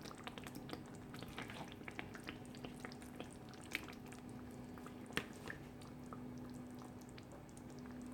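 Marinated chicken being added to thick onion-tomato masala in a wok and stirred in: faint wet squelching and small clicks of the spoon against the pan, with a couple of sharper knocks about four and five seconds in, over a steady low hum.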